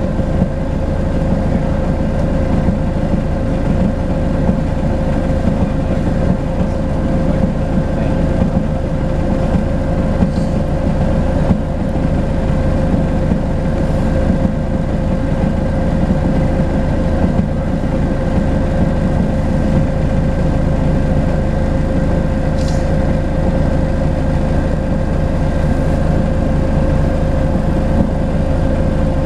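Volvo B10BLE bus's horizontal six-cylinder diesel engine running steadily, a low rumble with a steady whine over it, the turbo whistle that this bus is known for.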